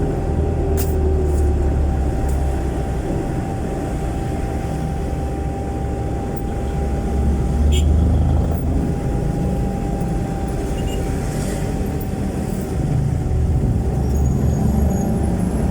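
Jeepney's Isuzu 4BC1 four-cylinder diesel engine running through a very loud exhaust, heard from inside the jeepney on the move. It has a deep, steady low sound with a thin steady whine above it, and it swells louder about halfway through and again near the end as it pulls harder.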